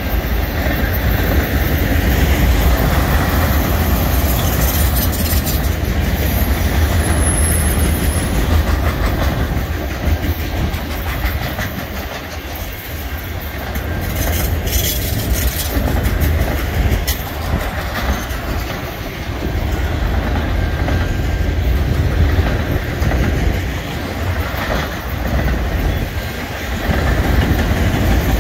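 Freight train auto rack cars rolling past close by: a steady rumble of steel wheels on rail, with clickety-clack as the wheels cross rail joints.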